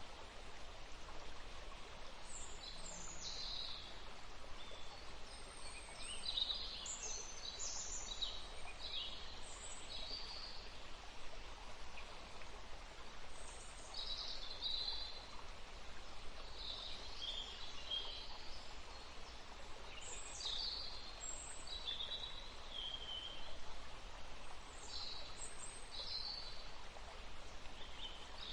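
Wild birds chirping and calling in short high-pitched phrases, several overlapping, over a steady outdoor background hiss.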